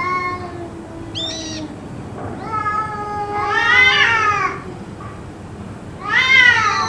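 Cats yowling in long, drawn-out meows that rise and fall in pitch, over a low, held wail in the first couple of seconds: a short high call about a second in, a long call peaking around four seconds, and another loud one near the end. The uploader wonders whether they are fighting.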